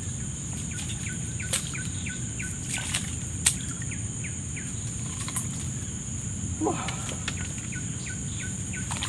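Lakeside ambience: a steady low background noise with a bird chirping in short, quickly repeated calls, and two sharp clicks, at about one and a half and three and a half seconds in.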